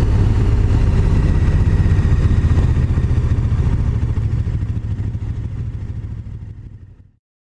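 KTM 1290 Super Duke GT's V-twin engine running steadily, fading out to silence about seven seconds in.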